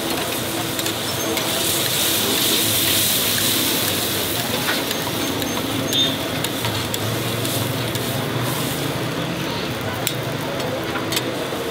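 Beef karahi sizzling in hot oil in the wok just after yogurt has gone in, with scattered clicks; the sizzle is loudest about two to four seconds in.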